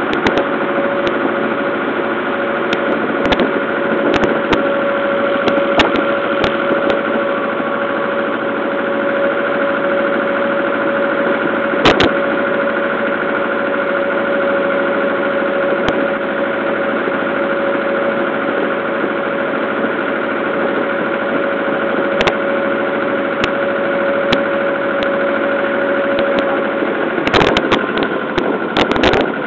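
Ferry boat's engine running at a steady speed, a constant humming drone with a few scattered knocks. Near the end the steady hum breaks off and the sound turns rougher and more uneven.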